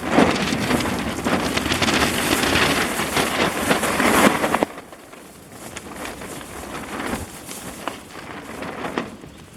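Campfire crackling and hissing, loud and dense for the first four or five seconds, then dropping to a softer crackle with scattered sharp pops.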